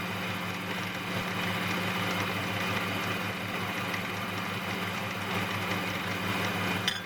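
Mini lathe running steadily with a 10 mm end mill in the spindle, its motor and belt drive giving an even hum. A brief high squeak comes near the end.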